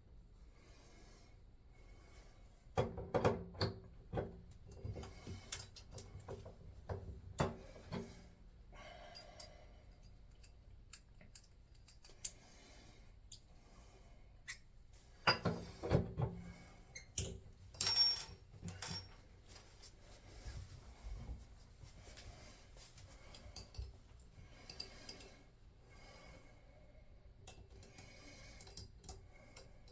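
Small metal tools and brass faucet fittings clinking, knocking and scraping as they are handled and worked on, in irregular clusters, busiest about three seconds in and again around sixteen to nineteen seconds in.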